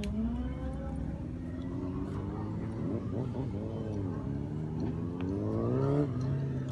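Car engines revving, their pitch rising and falling, two overlapping around the middle; near the end one climbs, then drops back to a steady idle.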